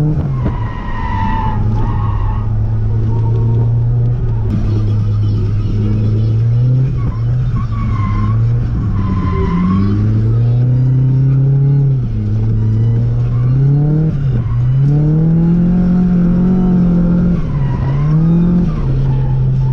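Nissan Silvia S15 drift car's engine revving hard, its pitch repeatedly falling and climbing again as it is driven in a drift, with tyres skidding on a wet track.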